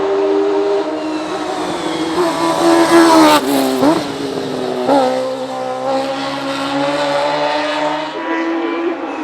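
Suzuki GSX-R1000 inline-four motorcycle engine in a hillclimb race car running at high revs. Its pitch climbs to a peak about three and a half seconds in, drops sharply, and dips and rises again briefly about five seconds in.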